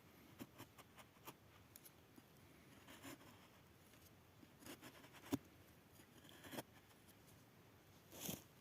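Near silence with faint, scattered small clicks and rustles, and one sharper click about five seconds in.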